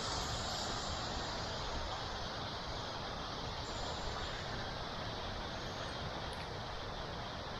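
Steady rushing of a waterfall: an even white-noise roar of falling water, with no changes or distinct events.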